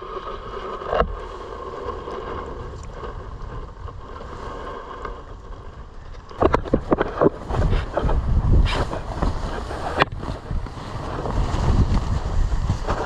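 Strong wind gusting against the microphone in a low rumble, growing stronger toward the end. About six seconds in comes a quick cluster of sharp cracks, with single cracks later.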